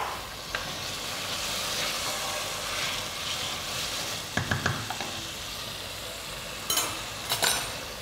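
Chickpeas and sofrito sizzling in a stainless steel pot while a wooden spoon stirs them, with a few knocks in the middle and two sharp clicks near the end.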